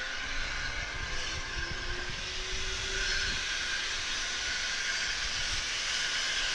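Steady hiss of escaping steam from a standing saddle-tank steam locomotive, with a low rumble underneath.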